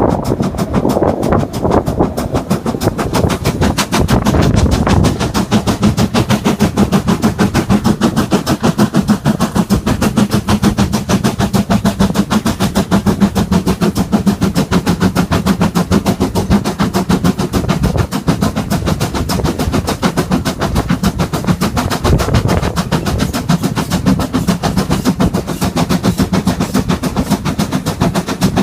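Steam train running, with a fast, even rhythm of sharp beats and a steady low drone that sets in about five seconds in.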